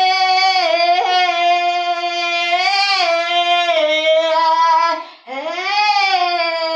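Solo unaccompanied singing voice holding long, drawn-out notes that bend slightly in pitch, with a short break for breath about five seconds in before a new note swells up.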